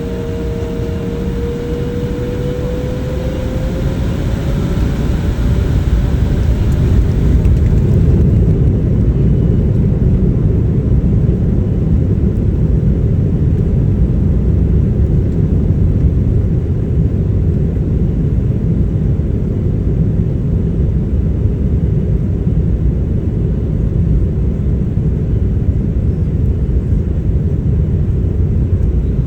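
Jet airliner's engines heard from inside the cabin, spooling up to takeoff power: a whine rising in pitch over the first few seconds as the noise builds, then a steady, heavy low noise of full takeoff thrust from about eight seconds in.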